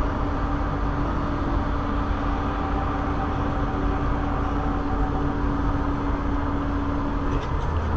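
Steady road and engine noise of a car driving, heard from inside the cabin, with a steady hum that stops shortly before the end.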